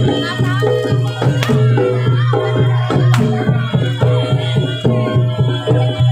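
Javanese dance-accompaniment music: quick hand-drum strokes and ringing metallic pitched notes over a steady low tone.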